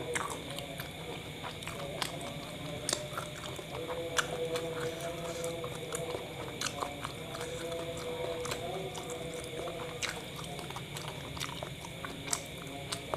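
A person chewing a mouthful of kebab wrap spread with yogurt, with wet mouth clicks and smacks scattered irregularly throughout.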